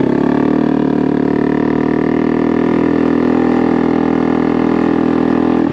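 Honda Navi's small single-cylinder four-stroke engine running steadily through an aftermarket Vance & Hines performance exhaust, a loud, even note.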